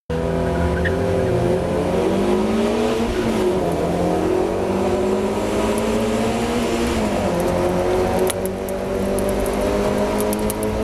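Mazda MX-5 race car's four-cylinder engine running hard, revs climbing and dropping several times through the gears, with a brief lift a little past eight seconds. The driver reports the engine as misfiring during this race.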